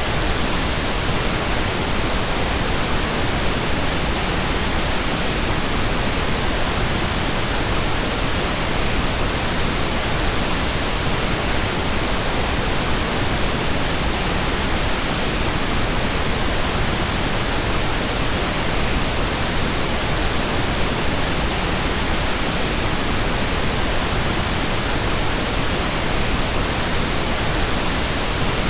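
Steady pink noise: an even, unchanging hiss spread evenly across the whole audible range, with no change in level.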